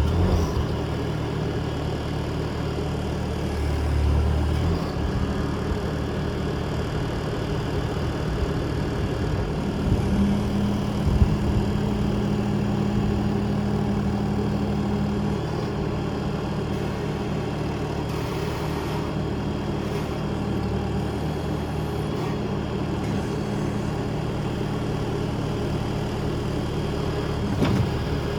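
2019 Bobcat T450 skid steer's diesel engine catching and then running at a steady idle.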